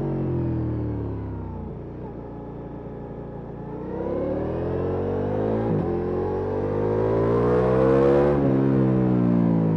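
Ducati Multistrada V4S Rally's V4 engine through an Akrapovic exhaust: the revs fall off the throttle for about two seconds, then it accelerates hard with rising pitch. The pitch dips briefly halfway through and again at the loudest point near the end, as it changes up a gear.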